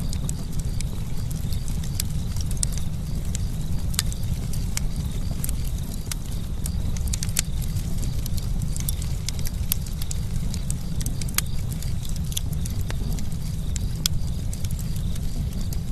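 Wood campfire crackling, with frequent sharp pops and snaps at irregular moments over a steady low rumble.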